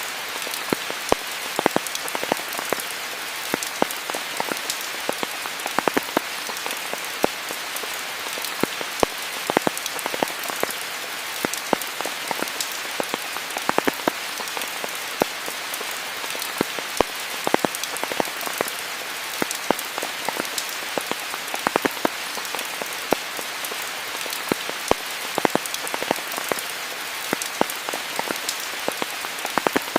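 Steady rain falling, a dense hiss with many close, irregular drops ticking sharply on leaves and surfaces.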